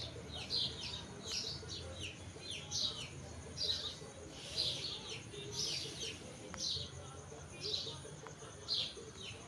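A bird chirping over and over, about two short calls a second, each falling in pitch, over a faint low hum.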